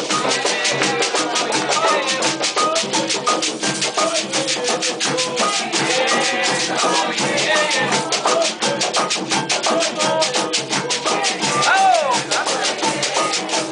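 Afro-Brazilian ritual music: shaker rattles beaten in a fast, steady rhythm with drums under voices singing a chant.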